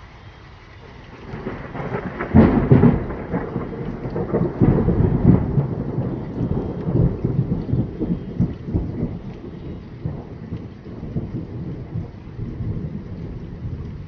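Thunder from a nearby lightning strike: a swelling crack about two seconds in, then a long, irregular, crackling low rumble that slowly dies away.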